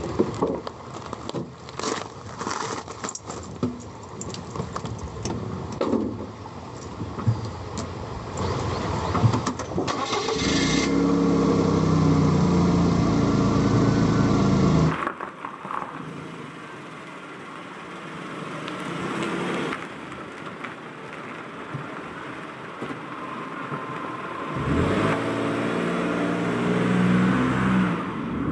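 Sharp clicks and knocks, then a vehicle engine running with a steady hum. After an abrupt cut about halfway through, it is quieter, and the engine hum comes back near the end.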